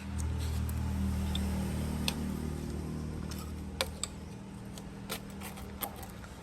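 A steady low mechanical hum starts suddenly and slowly fades after about four seconds. A few sharp metallic clicks sound over it.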